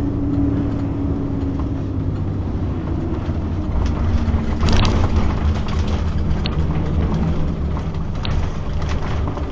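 Road and drivetrain rumble of a Beaver motorhome, with a tone that falls slowly in pitch as the vehicle slows: the motorhome coasting down after its engine lost all power at highway speed. A few sharp clicks about five, six and a half and eight seconds in.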